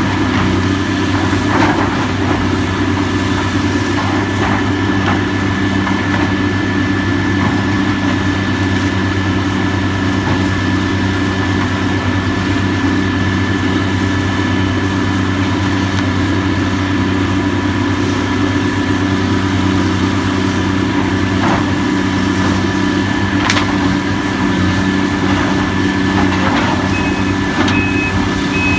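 Heavy machinery's diesel engine running steadily at a constant speed, with a few scattered knocks. Three short high beeps sound near the end.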